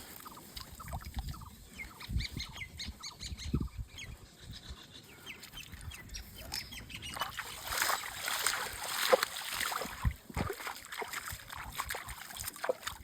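Birds calling, many short calls in a row, with a louder rush of noise for a couple of seconds past the middle.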